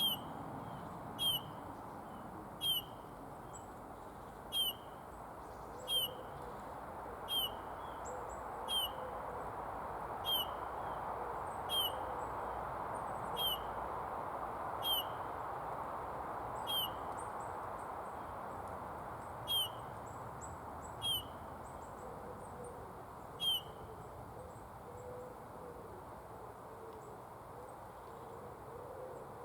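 Eurasian bullfinch giving its piping call: single short, downward-sliding whistled notes about every second and a half, some fifteen in all, stopping a few seconds before the end. A steady rushing background noise runs underneath.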